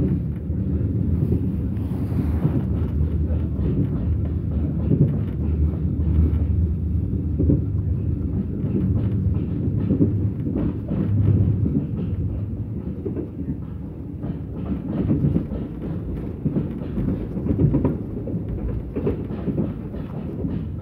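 Mugunghwa-ho passenger train running, heard from inside the carriage: a steady low rumble with many short clicks of the wheels over the rails.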